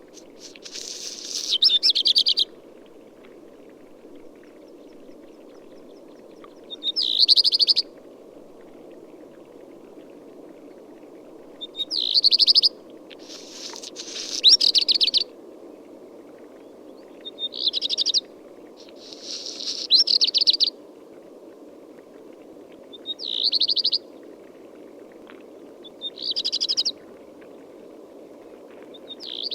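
A songbird singing short, high phrases of one to two seconds, each ending in a fast trill, about nine times with pauses of a few seconds between them. A steady low background noise runs underneath.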